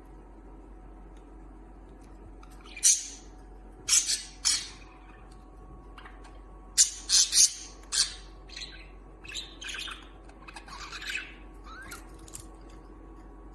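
Budgerigars giving short, harsh squawks and chirps in scattered bursts: a few single calls, then a quick run of loud calls about halfway through, trailing off into softer chatter.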